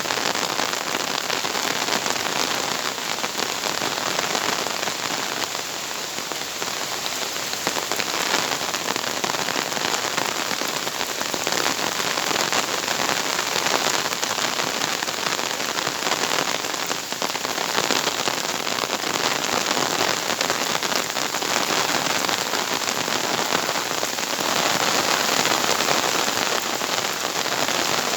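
Heavy rain pouring steadily, a dense even hiss with the fine patter of drops striking surfaces.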